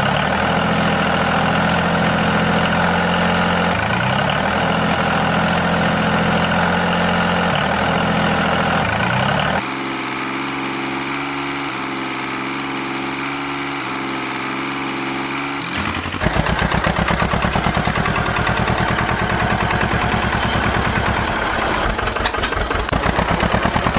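Small motor running steadily, with brief shifts in pitch. Its sound changes abruptly twice, ending in a fast, even rattling buzz.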